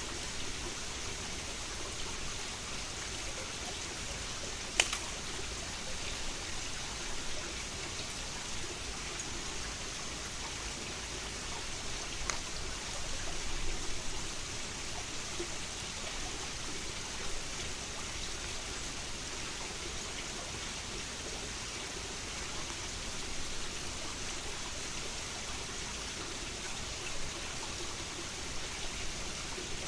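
Headwater mountain stream flowing, a steady rush of water. A single sharp click about five seconds in, and a fainter tick a little after twelve seconds.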